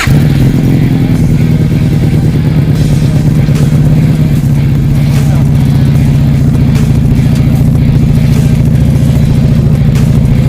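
FKM Victorino 250i motorcycle's engine and exhaust running at a steady speed, a loud, deep, even note that holds without revving up or down.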